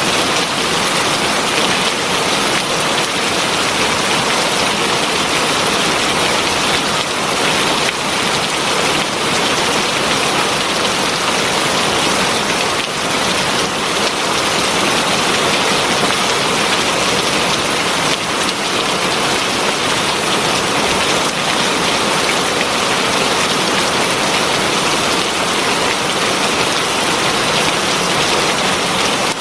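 Heavy rain falling steadily: a dense, even hiss of countless drops striking surfaces, with no lull.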